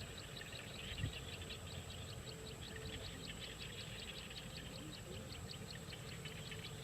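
A fast, even run of short high chirps, about seven a second, over a low rumble.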